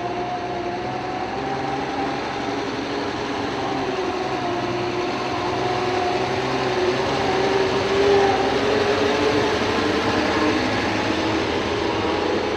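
Heavy truck engine running, a steady low rumble with a whine that slowly drifts in pitch.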